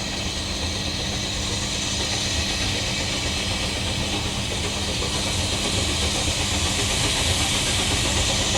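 A narrow-gauge steam locomotive hissing steam steadily, the hiss growing slightly louder, with a low steady hum beneath it.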